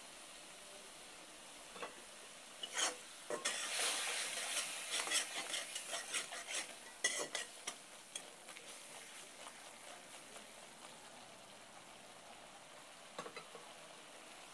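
Wooden spatula stirring and scraping onions and ground spices frying in oil in a steel kadai, over a steady sizzle. Rapid scraping strokes are loudest from about three to seven seconds in, then ease to quieter sizzling with a few light knocks near the end.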